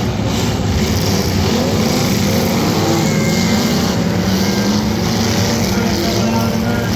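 Demolition derby car engines running loud and steady.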